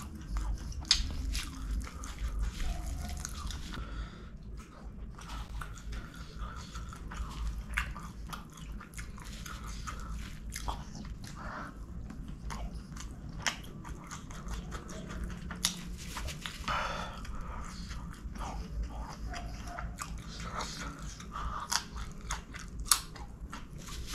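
Close-miked chewing of chicken kottu, with many short wet clicks and lip smacks, and the soft squelch of fingers gathering the food.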